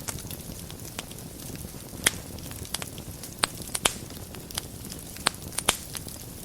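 Wood fire burning in a fireplace: a steady low rush of flame with irregular sharp crackles and pops, the loudest about two seconds in and a cluster a little past the middle.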